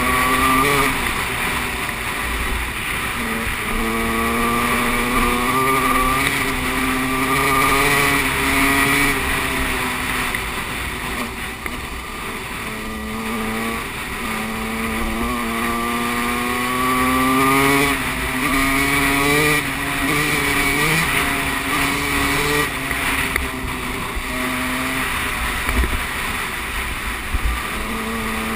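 Motocross bike engine revving, its pitch repeatedly climbing and dropping back every few seconds as the throttle is worked and gears change.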